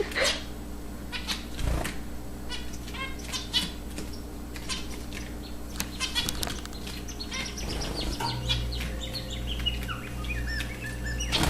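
Zebra finches giving many short, nasal chirps in quick succession, with wings fluttering.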